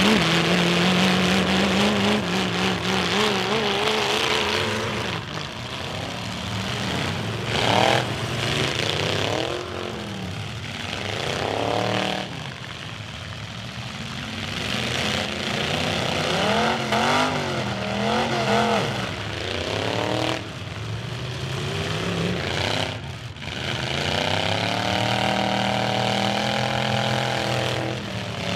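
Several demolition derby cars' engines revving hard, their pitch climbing and falling again and again as the cars accelerate, back up and push against each other.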